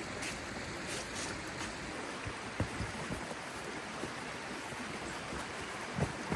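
Steady rain falling, with scattered light taps and a couple of soft low knocks.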